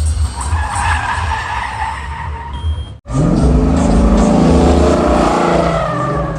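Tyres squealing and a car engine running hard, as at a donut or drift. The sound cuts off abruptly about three seconds in, then returns with the engine more prominent. A heavy bass beat of music runs underneath.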